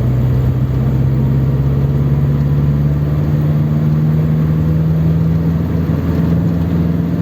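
1955 Ford 100E's 1172 cc side-valve four-cylinder engine pulling steadily on the road, heard from inside the car. Its drone rises slowly in pitch as the car gathers speed, then levels off about five and a half seconds in.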